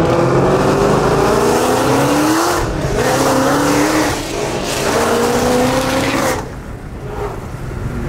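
A 2014 Shelby GT500's supercharged 5.8-litre V8 accelerating hard through the gears, heard from inside the cabin. The revs climb, drop at upshifts about two and a half and four seconds in, and climb again. At about six and a half seconds the throttle is lifted and the engine quietens.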